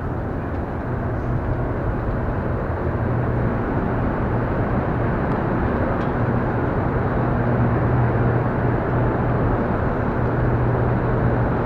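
Steady machine hum of the Hoover Dam powerhouse's hydroelectric generators, a low drone with a rushing noise over it, growing slowly louder.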